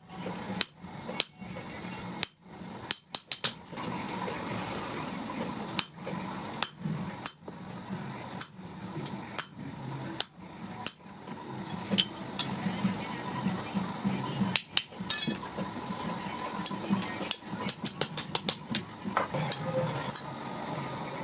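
Hammer striking metal, a blacksmith's blows coming at an irregular pace with quick runs of strikes now and then, over a steady hum.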